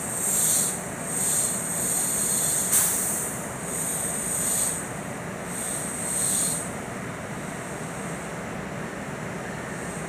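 Trains at a station: a steady low noisy rumble with repeated bursts of high hissing about once a second, which stop about two-thirds of the way through, as a train approaches from a distance.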